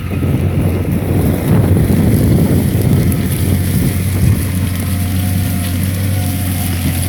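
LS Mtron 90 tractor's diesel engine running steadily under load while pulling a plough, with a heavier low rumble between about 1.5 and 4 seconds in.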